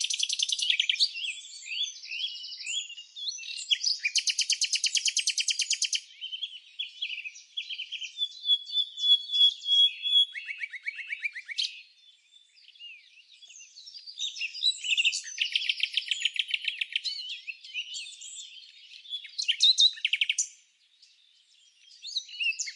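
Several songbirds chirping and singing, overlapping, with fast trills of rapidly repeated notes about four seconds in and again past the middle, and two brief lulls.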